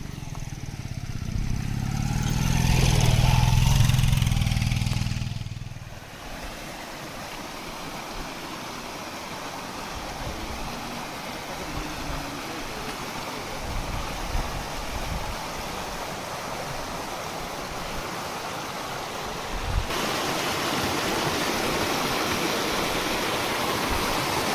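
A motor vehicle's engine swells and fades away over the first six seconds. It gives way to the steady rushing of flowing water, which grows louder about twenty seconds in.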